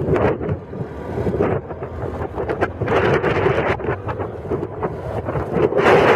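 Wind buffeting the microphone over the rumble of a car on the move, the noise swelling about three seconds in and again near the end.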